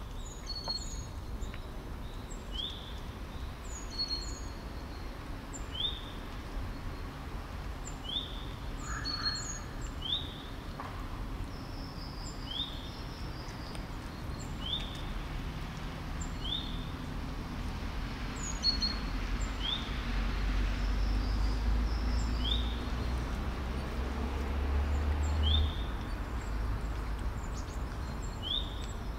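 Small birds chirping: a short rising chirp repeated every second or two, with higher chirps above it. A low rumble rises and then fades about two-thirds of the way through.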